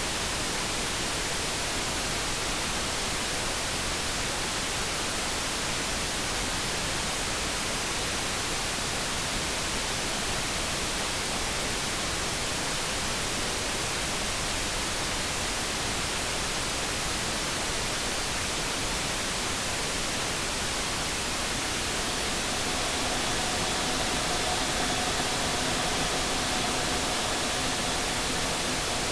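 Steady light brown noise, an even hiss. Past the three-quarter mark a faint electric-kettle hum of a few held tones joins it for several seconds, then fades out near the end.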